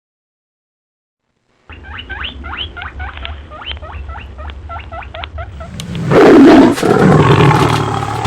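Farm animal calls: a quick run of short high chirps or squeaks, several a second, then a louder, harsher call about six seconds in.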